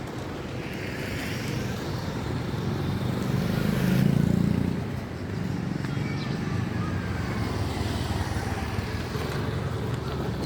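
Road vehicle engine running, growing louder to a peak about four seconds in, then holding steady.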